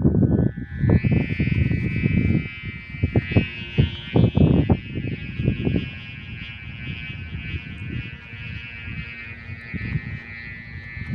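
A steady high buzzing drone runs throughout, with gusts of wind rumbling on the microphone in the first half.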